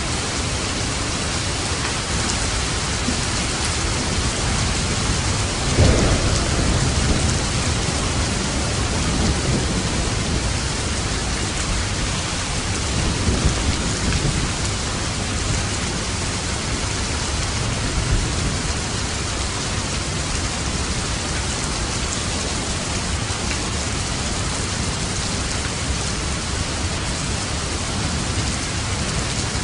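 Steady rain falling, with a rumble of thunder about six seconds in and fainter rumbles later on.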